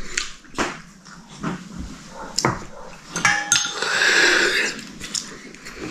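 Dishes and cutlery clinking at a meal table in short scattered clicks, with one louder, longer noisy sound about three seconds in.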